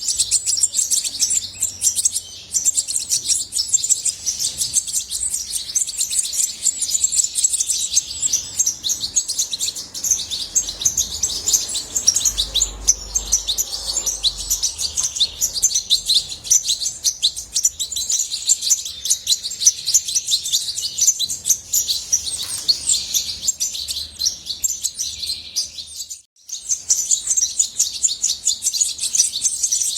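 European goldfinch singing: a long, continuous song of very fast twittering chirps and trills, breaking off for a moment near the end before carrying on.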